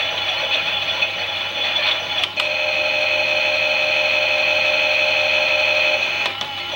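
Klein toy Miele washing machine's small electric motor whining as the drum turns, with a click a little over two seconds in after which the whine holds a steady pitch, and another click near the end where it goes back to wavering.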